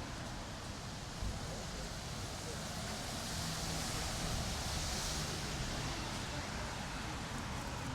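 City street ambience: steady traffic noise with background voices, and one vehicle passing that swells and fades in the middle.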